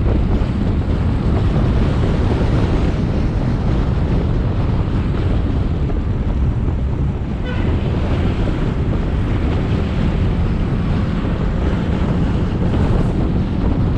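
Wind buffeting the microphone of a GoPro Hero 7 Black on a moving motorbike: a steady, heavy rumble with the bike's engine and road noise under it. About halfway through, a short, faint tone sounds briefly.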